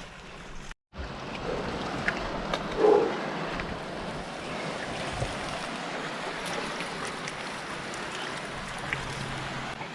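Steady outdoor sea noise: surf and wind on the microphone, with a few small knocks and a brief louder bump about three seconds in.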